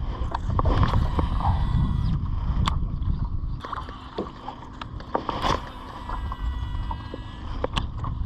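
Scattered knocks and clicks of gear being handled in a jon boat, over a steady low rumble.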